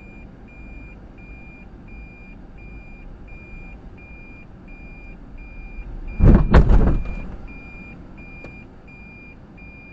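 Electronic warning beeps, one steady high tone repeating about twice a second, with a loud crash about six seconds in that lasts about a second and fades.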